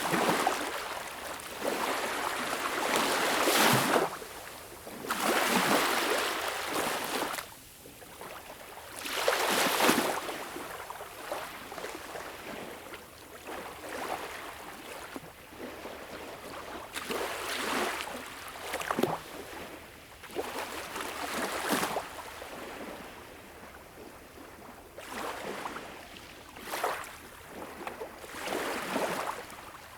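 Small, gentle sea waves lapping and washing up onto a beach shore, each one a swelling hiss that fades away, coming every few seconds. The surges are strongest in the first ten seconds.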